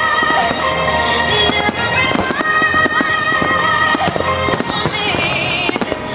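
Aerial fireworks bursting with many sharp pops and crackles over loud music with long held notes.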